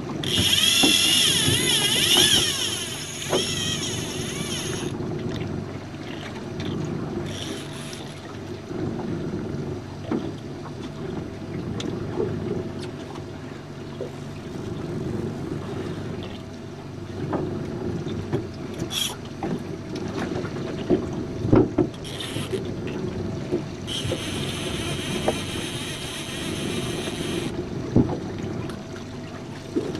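Small jon boat on open water: a steady low drone of motor and water noise, with two long hissing stretches, one just after the start and one near the end, and scattered knocks against the hull.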